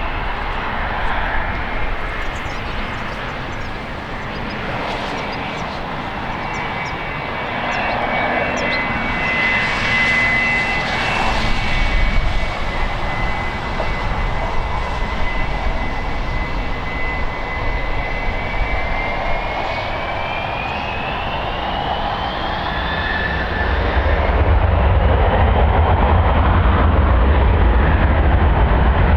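Jet airliner engines running, with a high whine that rises in pitch about two-thirds of the way through, heard through heavy wind noise on the microphone. A deep wind rumble grows louder near the end.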